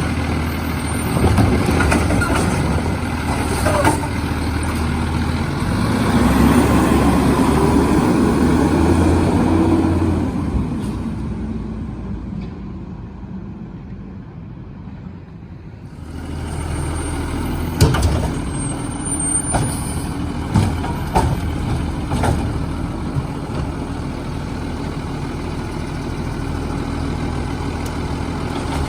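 Autocar split-body garbage truck's engine running. It swells for a few seconds, fades away briefly about halfway, then comes back, with a few sharp knocks.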